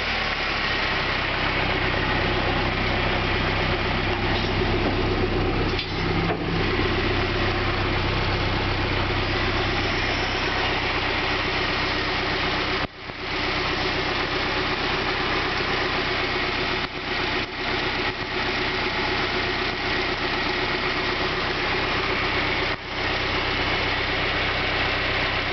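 Komatsu forklift's rebuilt A12 four-cylinder engine idling steadily, with a few brief dips in level, the deepest about halfway through.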